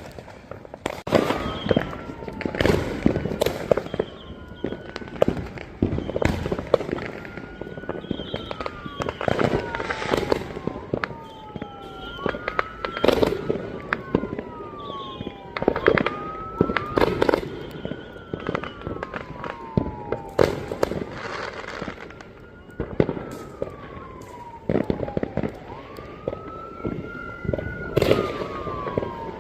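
Neighborhood fireworks going off repeatedly: sharp bangs and crackles every second or two. Under them, a siren-like wail rises and then falls, repeating every few seconds.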